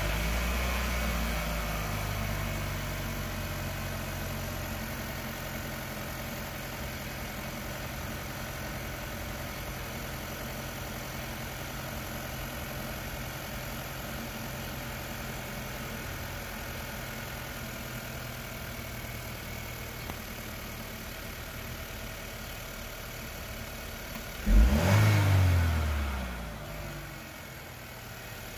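2020 Chevrolet Equinox 1.5-litre turbocharged four-cylinder, still on its stock airbox, idling just after starting. The idle is a little higher for the first few seconds, then settles. Near the end the throttle is blipped once, the revs rising sharply and falling back to idle within about two seconds.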